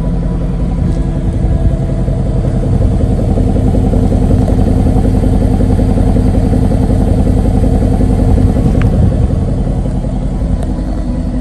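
Porsche Cayenne S's twin-turbo V8 idling steadily, heard at the quad tailpipes.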